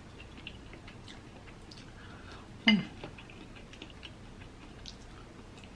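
Close-up chewing: soft mouth clicks and small smacks. About two and a half seconds in comes one short hum that drops in pitch.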